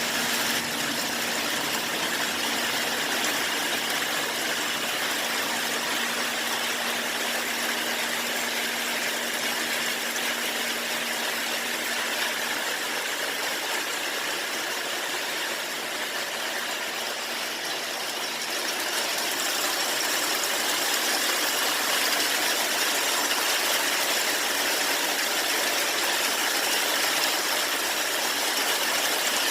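Steady rainfall, an even hiss, getting a little louder about two-thirds of the way through. A faint steady hum sits underneath at first and fades out before the middle.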